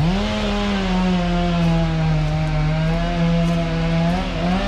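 Gas chainsaw revved up quickly to full throttle and held there, its high engine note sagging slightly and dipping briefly near the end before picking back up.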